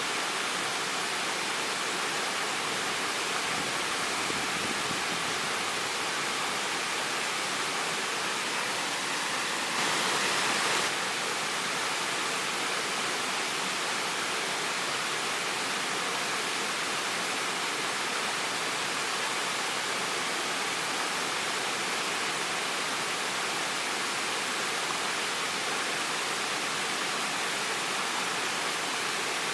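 Waterfall: a steady rush of falling water, briefly a little louder about ten seconds in.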